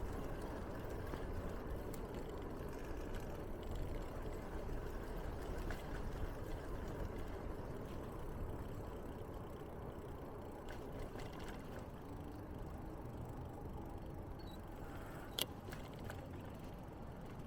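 Steady low rumble of riding a bicycle, with tyre noise and wind on the microphone, and one sharp click about fifteen seconds in.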